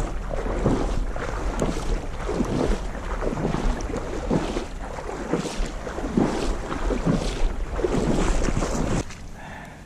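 River water splashing and sloshing in irregular surges, several a second, with wind buffeting the microphone; it stops abruptly near the end.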